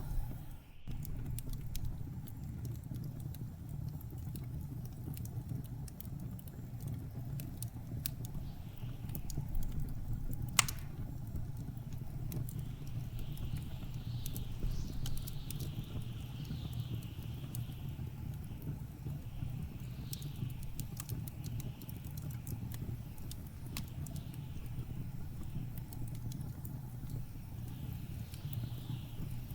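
Wood fire crackling with scattered sharp pops, one louder pop about ten seconds in, over a steady low rumble of blizzard wind. From about halfway through, high whistling gusts of wind rise and fall.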